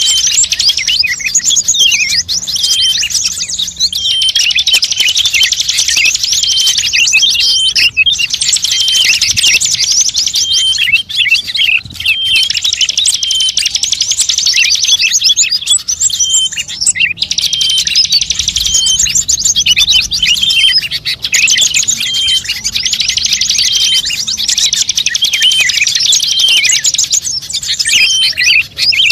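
Songbird chirps and fast trills from a bird-luring (pikat) recording, dense and high-pitched, with a few brief pauses.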